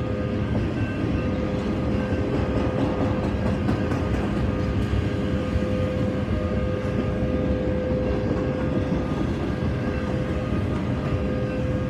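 Intermodal freight train passing, its flatcars carrying highway trailers: a steady rumble of wheels on rail, with a thin steady whine running over it.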